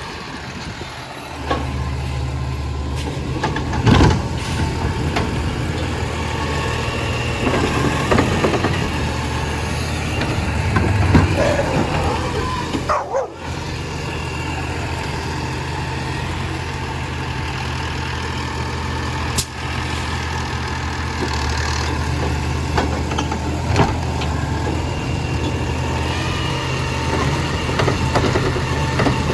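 Garbage truck engine running steadily, with several sharp clunks and knocks over it.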